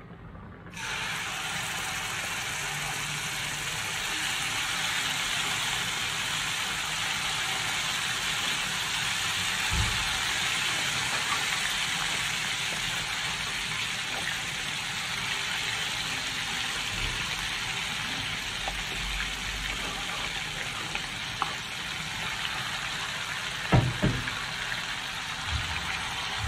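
Ground chilli paste (sambal) hitting hot oil in a wok: it starts sizzling suddenly about a second in and then fries with a steady sizzle, with a couple of light knocks about ten seconds in and near the end.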